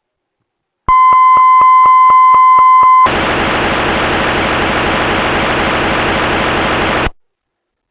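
LeapFrog Fridge Phonics toy's electronic sound chip playing a steady high beep tone with regular clicks about four a second for about two seconds. It then switches to a hiss of white noise for about four seconds, which cuts off suddenly.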